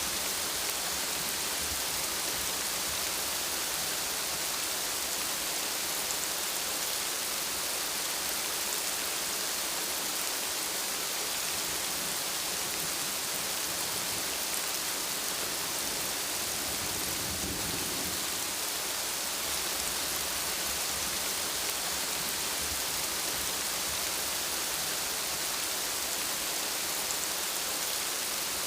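Steady rain falling, a dense even hiss with no let-up, and a brief low rumble of thunder a little past the middle.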